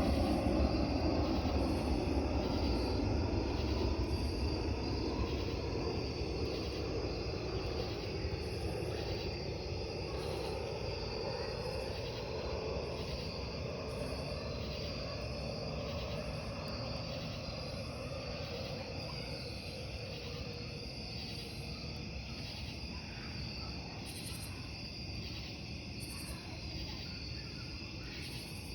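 Crickets chirping in a steady, even rhythm. A low rumble is loudest at the start and fades away over the first half.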